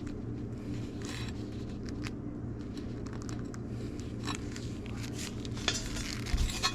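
Light scrapes and clicks of hand sheet-metal work on a rust-repair patch piece, over a steady low hum, with the clicks coming thicker near the end.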